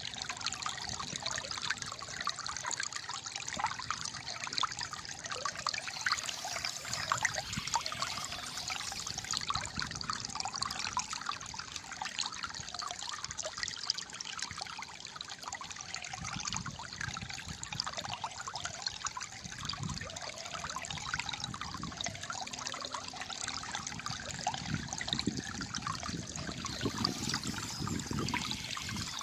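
Shallow flowing water trickling and gurgling steadily, with deeper gurgles in the second half.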